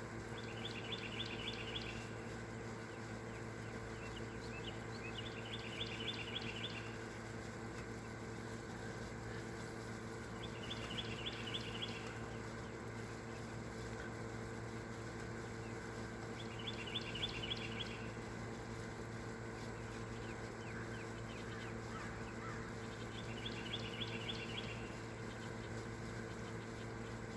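A songbird repeating a short, fast trilled phrase of rapid notes, about every five seconds, over a steady low hum.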